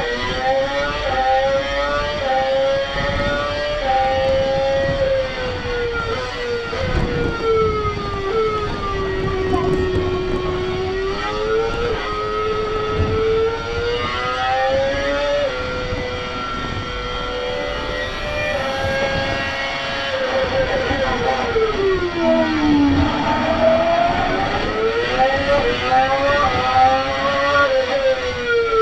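Simulated Formula One car engine from a motion-simulator ride's soundtrack, played through the ride's speakers: a high engine note rising and falling as it accelerates, shifts and brakes, with a long drop in pitch about 22 seconds in and a few knocks.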